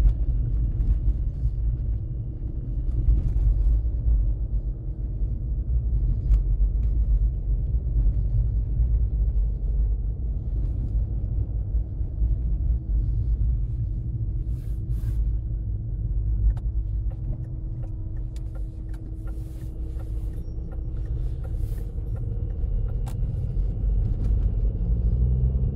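Steady low rumble of a Volkswagen Lupo 3L heard from inside the cabin while driving, from its three-cylinder diesel engine and tyre noise, with a faint steady hum in the middle and occasional light clicks. The engine is still cold and warming up, below +5 °C.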